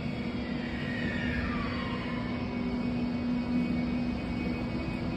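ÖBB class 1016 (Siemens Taurus) electric locomotive's traction whine, falling in pitch over the first two seconds as the train slows, over a steady low electrical hum.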